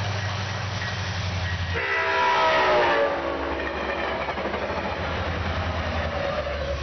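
MPI MP36PH-3C diesel locomotive passing at speed with its horn sounding about two seconds in. The horn and the low engine note both drop in pitch as it goes by (Doppler effect). Then bilevel commuter coaches rumble and clatter past.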